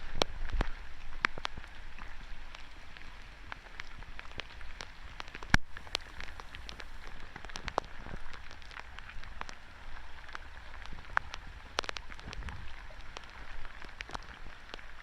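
Irregular patter of water drops and small splashes over a low rush of flowing floodwater, with a few sharper splashes.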